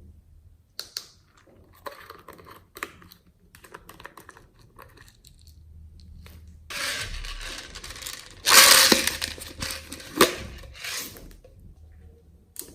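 Hands working slime: scattered sticky clicks and pops, then a louder crackling stretch from about seven to eleven seconds in.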